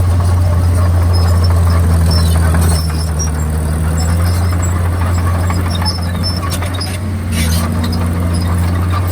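Komatsu D51PX bulldozer's diesel engine running steadily with a low drone, easing off slightly twice, with short high squeaks scattered over it.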